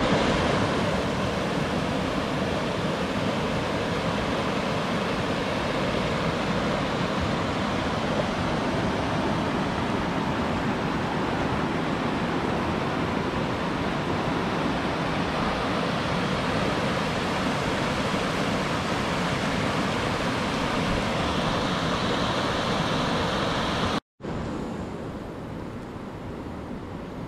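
Steady loud rush of a fast-flowing stream. Near the end it cuts out briefly and comes back quieter.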